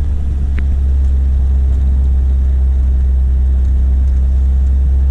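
Volvo car driving, a loud steady low engine and road drone heard inside the car.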